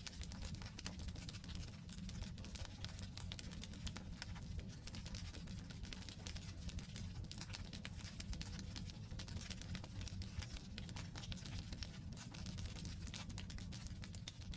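Wood campfire burning: dense, irregular crackling and small pops over a steady low rumble from the fire.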